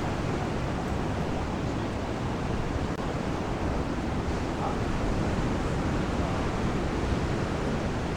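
Steady rushing noise of sea surf washing onto the beach.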